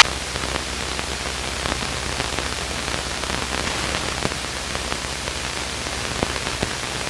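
Steady hiss of a light aircraft's intercom and headset audio feed with no one talking, over a low steady hum and a few faint scattered clicks.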